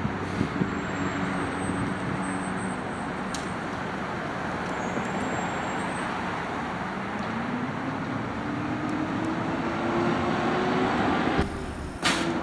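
Natural-gas garbage truck engine running with a steady note that rises gradually in pitch for a few seconds, as when the truck gathers speed. Near the end the sound breaks off abruptly, followed by a brief burst of noise.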